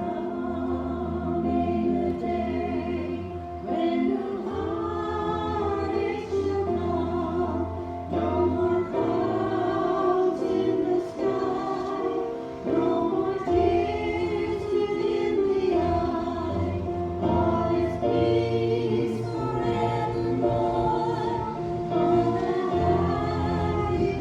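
Gospel song: a group of voices singing over instrumental accompaniment with sustained bass notes.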